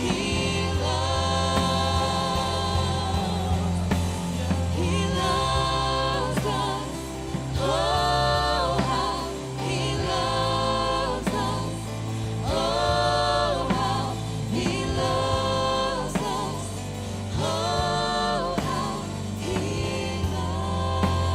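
Live gospel worship music: singers holding long notes over steady bass and accompaniment.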